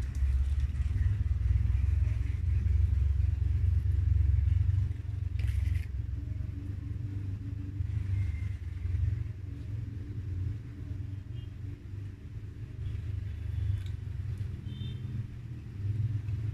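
Close-miked chewing of a soft cream-filled sponge cake bar with the mouth closed, heard mostly as a low muffled rumble that is loudest in the first few seconds.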